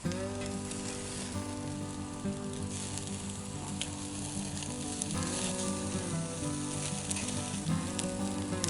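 Pork sizzling on a grill over a wood fire, with a few sharp pops, under background music.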